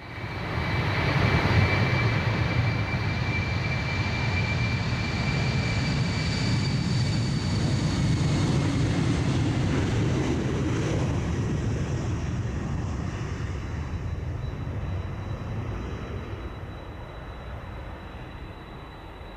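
Boeing 747-400 jet engines at takeoff power: a loud jet roar with high steady whines over it, fading gradually over the last several seconds as the aircraft draws away.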